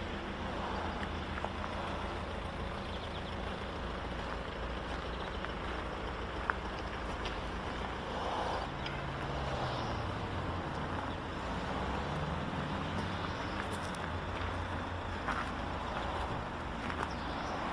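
Opel Omega 2.0 DTI turbo-diesel engine running with a steady low hum. Its pitch shifts up and down in steps for a few seconds midway.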